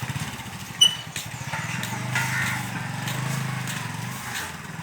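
Small boat engine running steadily with a pulsing low hum, and a sharp click about a second in.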